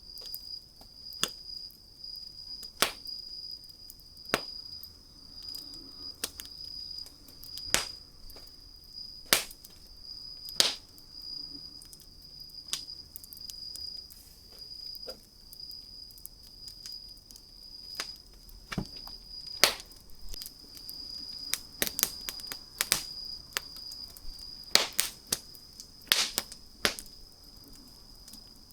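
Wood fire crackling, with irregular sharp pops of different strengths, a cluster of louder ones near the end. A steady high-pitched tone sounds faintly underneath.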